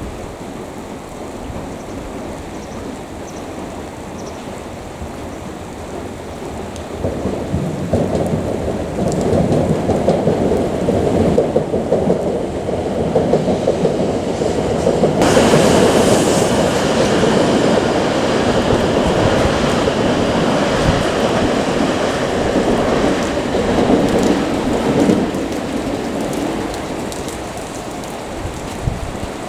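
Hokuriku Shinkansen train running past. Its rumble builds from about seven seconds in, turns brighter and louder around the middle, and fades away near the end, over a steady hiss of rain.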